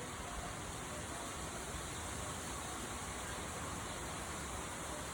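Steady, even rushing noise of a rainstorm.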